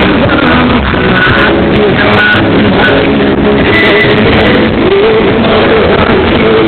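Loud music with guitar played through a paredão, a Brazilian car-mounted speaker-wall sound system.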